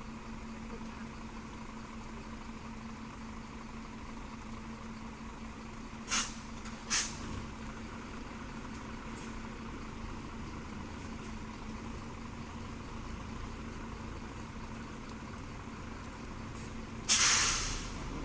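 Scania P360 truck's diesel engine idling steadily, with two short air-brake hisses about six and seven seconds in and a louder, longer air-brake hiss near the end.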